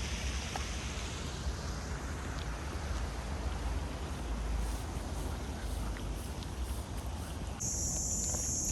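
Rushing water from a small waterfall fading out over the first couple of seconds, over a steady low rumble. Near the end, a steady high insect chirring starts suddenly and holds.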